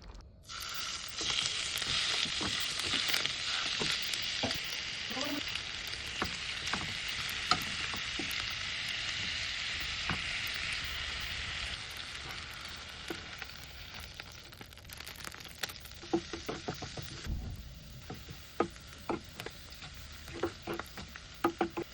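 Food sizzling in a hot frying pan, starting suddenly about half a second in and loudest for the first ten seconds or so before dying down. In the last few seconds the sizzle is quieter, with many short clicks of a utensil stirring against the pan.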